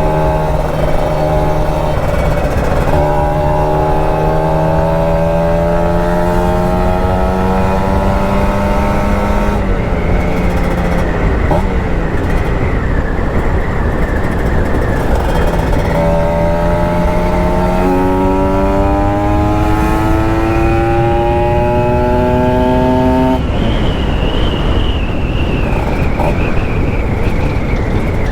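Kawasaki Ninja RR 150's single-cylinder two-stroke engine accelerating while riding. Its pitch climbs slowly twice, from about three seconds in and again from about sixteen seconds, and drops in between, over steady wind rush.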